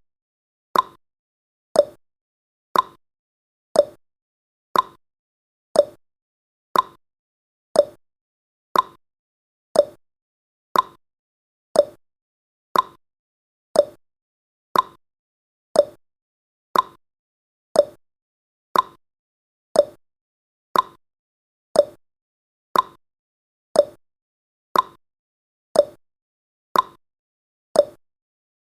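Countdown timer's clock-tick sound effect: one sharp tick about every second, each dying away quickly, at an even pace.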